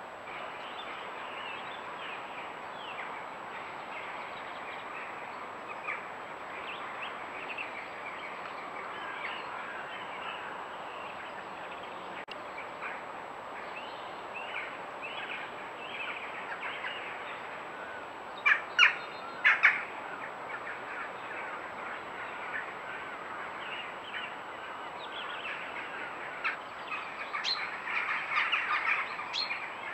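Many small wild birds chirping and singing, growing busier near the end, with a few loud sharp notes about two-thirds of the way through.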